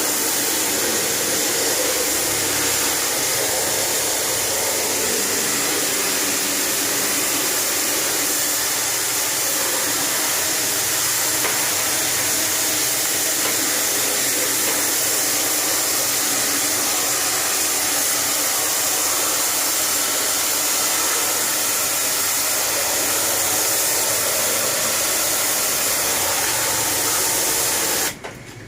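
Pressure washer running and spraying water in a steady loud hiss, which cuts off suddenly near the end.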